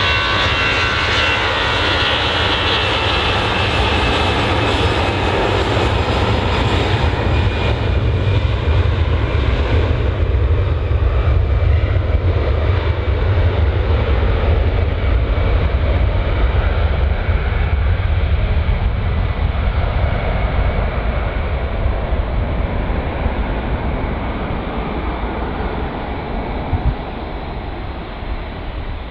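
Airliner's jet engines: a steady deep rumble with a high whine at first. The whine and upper hiss fade away as the aircraft draws off, and the noise slowly recedes near the end.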